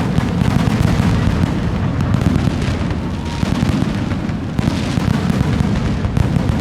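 Fireworks display: a dense, continuous barrage of shell bursts, with booms overlapping without a break. More crackle comes in from about four and a half seconds.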